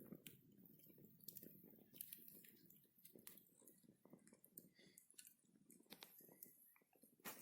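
Campfire crackling faintly: irregular sharp snaps and pops over a soft low rustle of burning wood, with one louder snap near the end.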